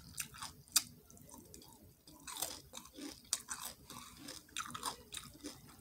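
A person chewing crunchy fried catfish, with irregular crisp crunches.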